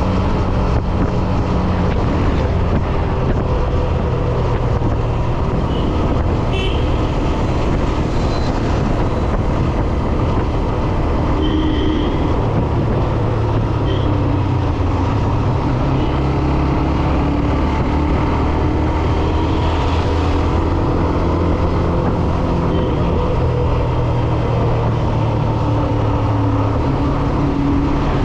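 Hero Xtreme 125R's single-cylinder engine running steadily on the move, with wind rushing over the microphone. There are a few short horn toots from traffic.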